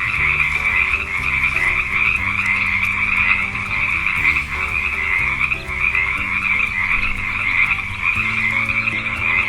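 Frogs croaking in a continuous, dense rasping chorus.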